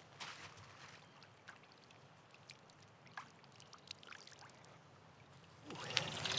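Faint trickling water with scattered light clicks and taps. A louder, steady noise comes in near the end.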